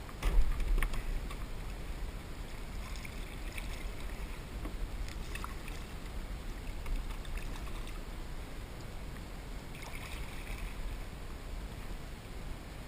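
Kayak paddling: water splashing and dripping off the paddle and lapping at the hull, over a steady low rumble. There is a loud knock about half a second in.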